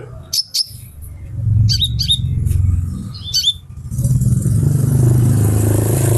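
A female sunbird giving short, sharp high chirps, several in quick pairs during the first three and a half seconds. A low engine hum runs underneath, and from about two-thirds through a vehicle passing close by gets loud and covers the birdsong.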